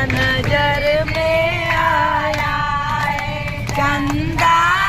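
A high voice singing a devotional song in long, wavering held notes, with many sharp taps running through it and a low rumble underneath.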